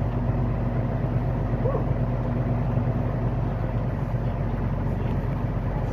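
Semi-truck's diesel engine running steadily while driving, heard from inside the cab as an even low drone.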